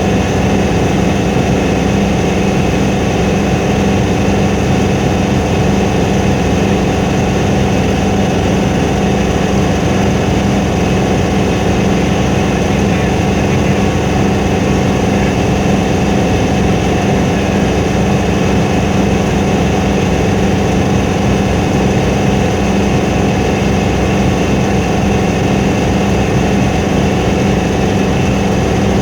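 Steady, loud drone of a helicopter's engine and rotor, with a strong low hum and no change in pitch or level.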